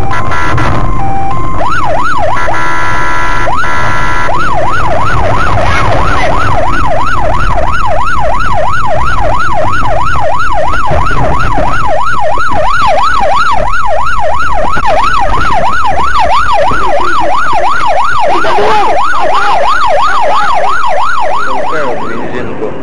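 Emergency vehicle siren in yelp mode, its pitch sweeping rapidly up and down about twice a second, with a brief steady horn-like tone about two seconds in. A vehicle's rumble runs underneath, and the siren fades near the end.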